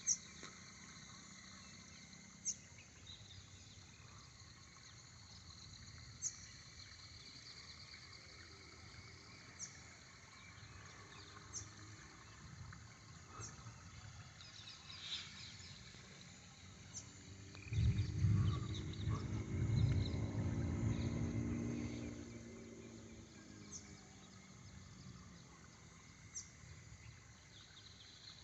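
Insects chirping steadily, with a sharp chirp every couple of seconds. About two-thirds of the way in, a low rumble of distant thunder swells for a few seconds and fades.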